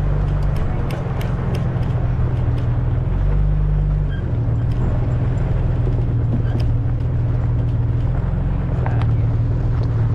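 A car engine running steadily as the car drives, heard from inside, with the engine note changing about three to four seconds in and scattered clicks and rattles throughout.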